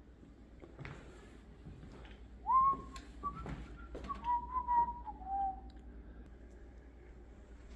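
A person whistling a short tune: a few held notes that slide up and down between them, starting about two and a half seconds in and lasting about three seconds. A few light knocks of handling sound around it.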